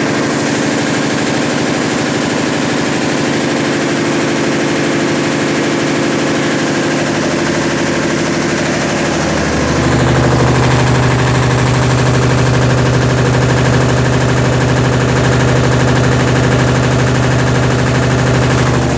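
Consul Facilite 10 kg (CWC10) washing machine running in its rinse-and-spin programme: a steady motor hum with a fast rattle. About halfway through, a louder, deeper hum joins in and holds.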